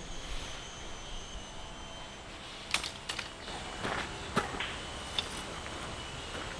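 A steady, high insect drone in the background, with a run of short crunches and knocks starting about three seconds in.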